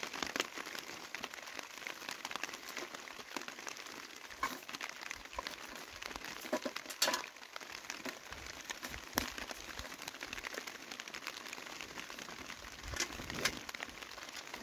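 Rain pattering on the tent's fabric roof, a steady crinkly hiss with scattered louder ticks of single drops.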